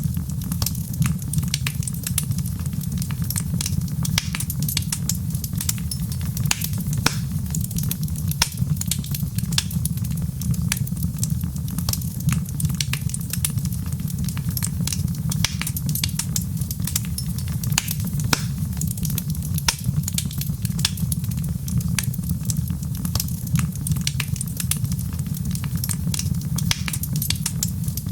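Wood fire crackling, with many small sharp pops and snaps over a steady low rumble.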